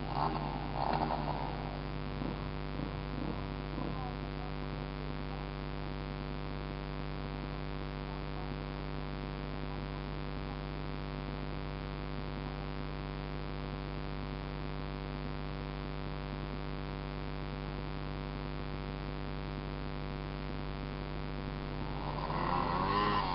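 Small dirt bike engine idling steadily, with a few short uneven moments in the first few seconds.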